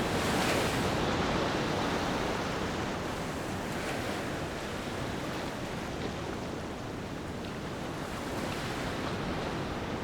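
Ocean waves washing onto a beach: a steady surf hiss that swells as a wave breaks just after the start, then eases, with softer swells later.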